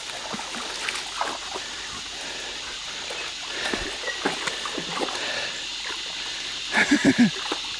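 Creek water trickling and running steadily, with small splashes as a dog wades through the pool. A brief voice-like sound comes near the end.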